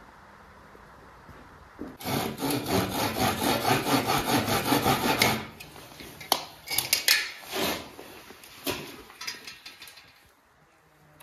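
A hand saw cutting through a piece of wood in quick back-and-forth strokes, about three a second, for a few seconds; it stops abruptly. Then come a few scattered knocks and short scrapes of wood being handled.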